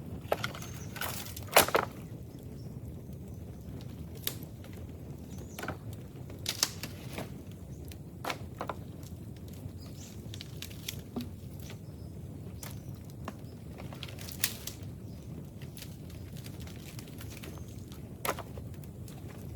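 Dry bamboo cracking and snapping in irregular, scattered sharp cracks, the loudest about a second and a half in, over a steady low rumble.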